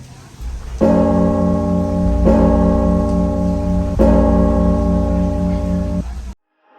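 A deep bell struck three times, about a second and a half apart, each strike ringing on with a wavering, pulsing hum. The ringing cuts off abruptly near the end.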